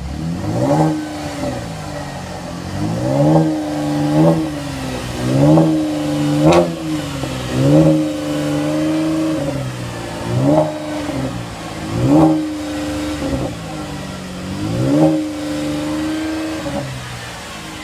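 2015 Chevrolet Camaro engine and exhaust revved about nine times, each rev rising and dropping back, several held briefly before falling, with one sharp crack about six and a half seconds in.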